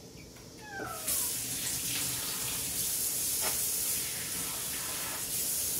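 A cat gives a short falling meow, then a kitchen tap runs steadily for about five seconds and is shut off near the end.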